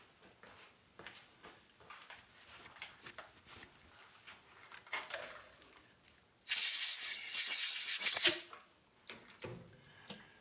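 A blast of compressed air from a blow gun, a loud steady hiss lasting about two seconds that stops sharply, among faint clicks of tools being handled.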